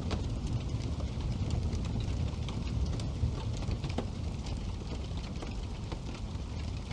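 Wood fire burning in a fireplace: a steady low rumble of the flames with frequent small crackles and pops from the burning logs, a few louder pops standing out.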